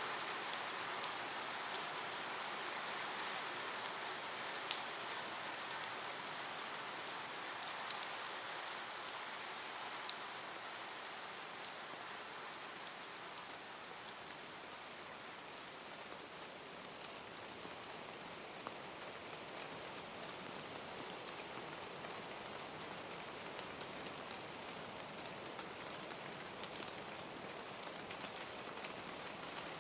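Steady rain falling on a surface, with sharp ticks of individual drops in roughly the first ten seconds, then a little softer and more even.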